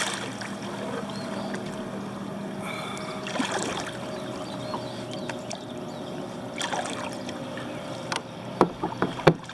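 Kayak paddle strokes splashing in the water every few seconds, over the steady drone of a distant lawnmower engine. Several sharp knocks come near the end.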